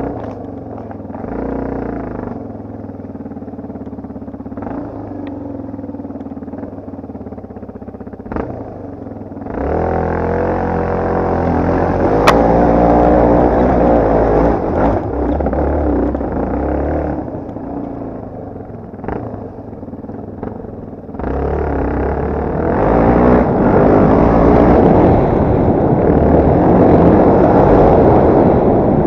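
Yamaha TT250R dirt bike's single-cylinder four-stroke engine running under varying throttle, getting louder about ten seconds in and again past the twenty-second mark. A single sharp click about twelve seconds in.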